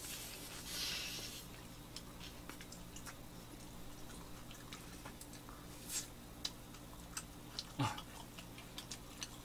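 Biting into and chewing butter-fried toast sandwiches: a crisp crunch for about the first second and a half, then faint scattered clicks and mouth sounds of chewing.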